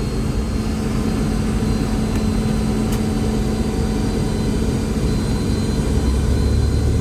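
The Boeing 717-200's rear-mounted Rolls-Royce BR715 turbofan engines running at low thrust before takeoff, heard inside the cabin. The sound is a steady low rumble with a constant hum and a faint high whine.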